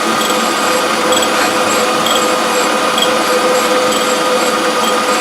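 Surface grinder running with a steady hum and whine, with faint high ticks about once a second. It runs without vibration, a sign that the wheel is sound.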